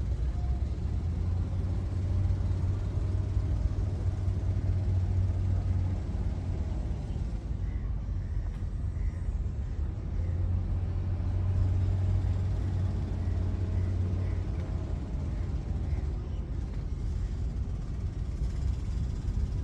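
A small boat's engine running steadily, a low drone that swells slightly and eases a few times.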